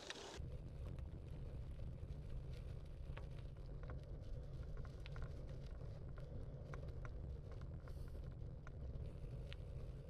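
Wind buffeting a muffed clip-on microphone as a low, steady rumble, setting in just after the start, while a gravel bike rolls along a gravel road. Scattered small ticks come from gravel under the tyres.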